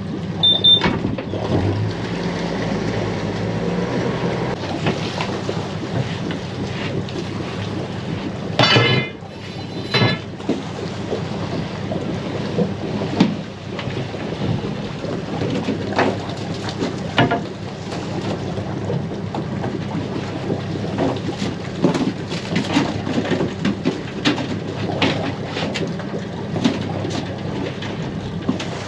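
A crab boat's engine running steadily, with wind noise and irregular knocks and clatter throughout. A brief high call about nine seconds in.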